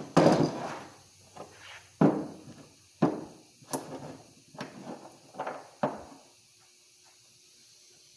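Metal parts of a dismantled Gravely L crankshaft being handled and set down, giving about seven irregular knocks and clunks over six seconds.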